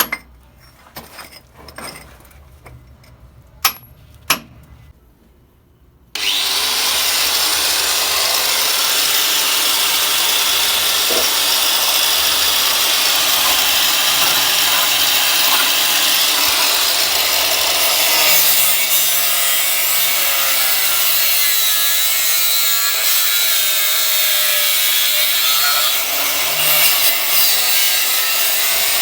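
A few sharp knocks, then from about six seconds in an angle grinder cuts steadily and loudly through old galvanised iron pipe.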